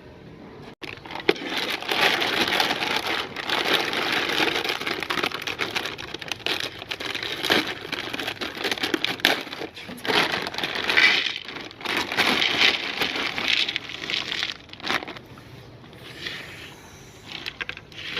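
A meat grinder crunching up an item, giving a dense run of crackling and crunching. It starts about a second in and fades near the end.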